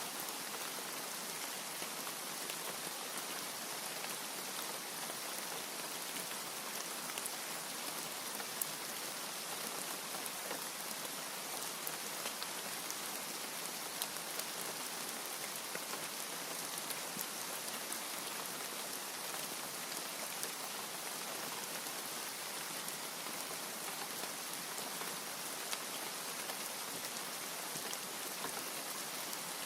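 Steady rain falling, an even hiss with many individual drops ticking sharply through it; no thunder.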